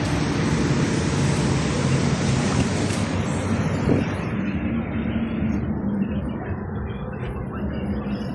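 A car running, with a steady low engine note and a hiss above it that dies away after about three seconds.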